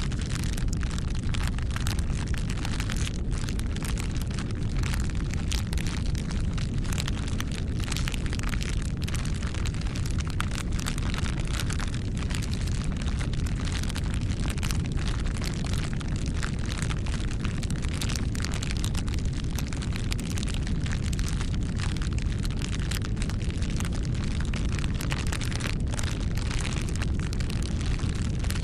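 Wood campfire burning steadily: a constant low rumble of flame with frequent irregular crackles and pops from the burning wood.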